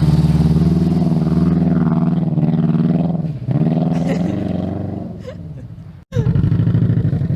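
Subaru Impreza's flat-four engine running hard under load, its pitch falling away twice. It cuts out for an instant about six seconds in and comes straight back at full level.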